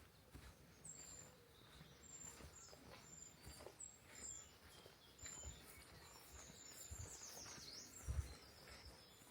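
A small songbird repeating short, high, thin notes every half second or so, with a quick falling run of notes near the end. Soft low thuds of walking footsteps sound under it, one louder thud about eight seconds in.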